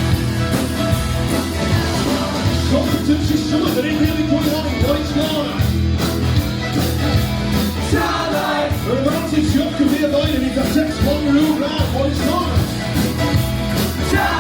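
Live rock band playing through a PA, loud and continuous, with a steady drum beat and bass and some singing over it.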